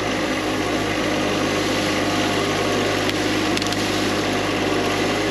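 Tractor engine running steadily while pulling a load.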